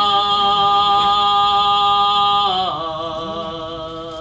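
A singer holding one long note of a gospel song, steady in pitch, that drops to a lower, quieter note about two and a half seconds in.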